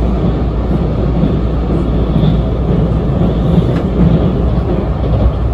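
Steady running noise of a 651-series limited express train heard from inside the passenger cabin as it crosses a steel truss bridge at speed.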